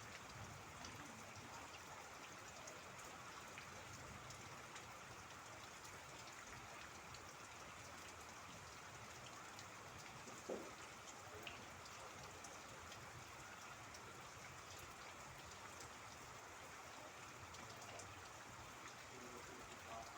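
Faint, steady rainfall, with many small drop ticks. A single brief knock comes about halfway through.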